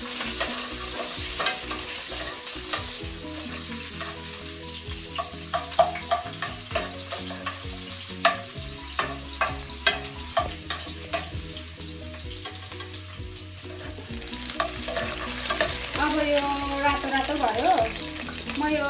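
Sliced onion frying in hot oil in a frying pan, a steady sizzle, with a metal spoon clicking and scraping against the pan as it is stirred.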